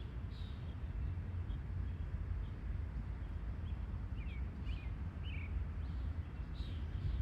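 A low steady rumble, with a few short, high bird chirps about four to five and a half seconds in.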